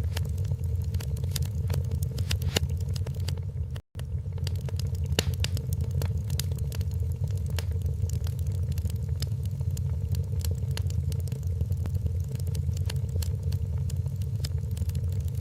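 Wood fire in a fireplace crackling, with frequent sharp pops and snaps over a steady low rumble. The sound cuts out for an instant about four seconds in.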